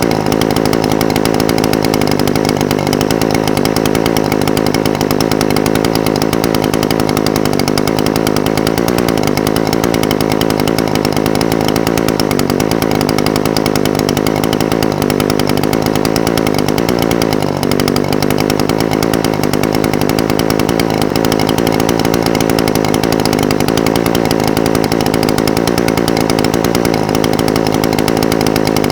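Echo SRM-420TES brush cutter's two-stroke engine idling steadily, its pitch wavering slightly, with a brief dip just past halfway.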